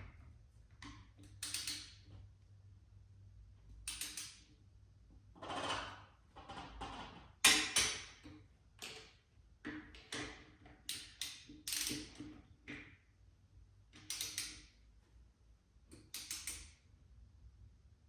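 Click-type torque wrench ratcheting in short strokes and clicking as bolts on a motorcycle wheel are tightened to 25 ft-lb in a star pattern, with a run of brief ratchet bursts spaced through the whole stretch.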